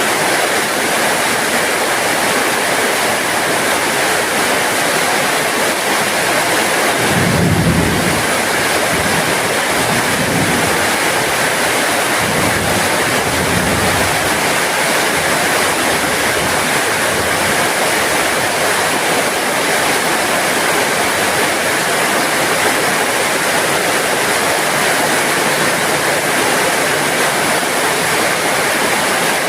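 Steady heavy rain hissing throughout. About seven seconds in, a low rumble swells up and rolls on in several fading swells for the next ten seconds or so.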